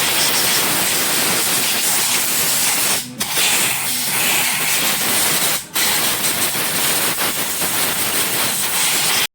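A steady, loud hiss, broken by two short drops about three and five and a half seconds in.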